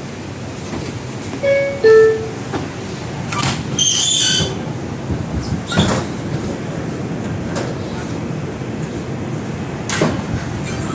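R142 subway car's descending two-tone door chime sounds about a second and a half in. It is followed around 4 s by a loud, high hissing squeal, then a couple of sharp knocks over the car's steady low rumble.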